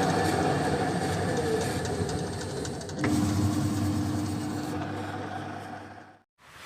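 Godrej washing machine running: a steady mechanical rumble that slowly fades. About three seconds in it steps up again with a steady hum, then cuts off suddenly just after six seconds.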